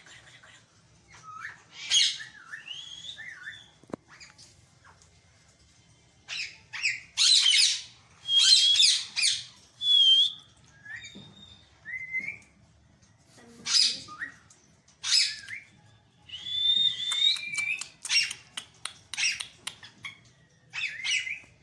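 Green ringneck parakeets squawking, harsh screeching calls in bursts, mixed with shorter whistled chirps and brief pauses.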